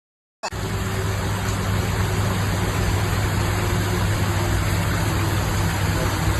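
A motor vehicle engine running steadily under a broad rushing noise. It starts abruptly about half a second in and cuts off sharply at the end.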